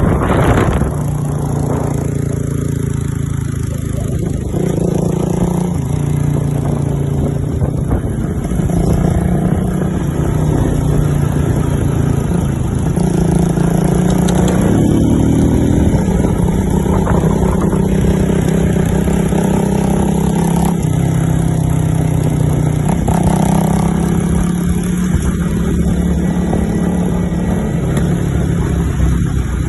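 Motorcycle engine running steadily for the whole stretch, its pitch shifting up and down in steps several times, with one brief rise about halfway through.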